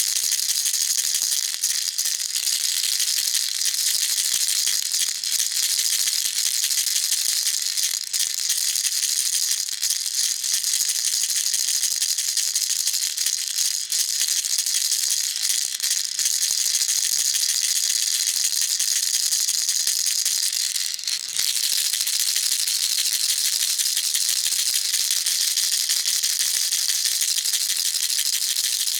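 A baby rattle shaken continuously, its beads rattling in a dense, steady, high-pitched rattle with a brief break about 21 seconds in.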